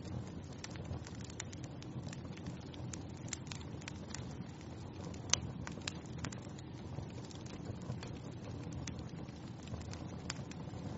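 Wood fire in a fireplace crackling: irregular sharp snaps and pops over a steady low rumble of the flames, with one louder pop about five seconds in.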